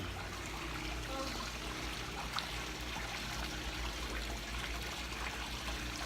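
Swimming pool water trickling and splashing steadily.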